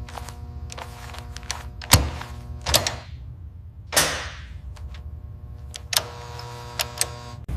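About half a dozen separate sharp clicks and thunks, the loudest about two seconds in, with a short hiss about four seconds in, over a faint steady hum.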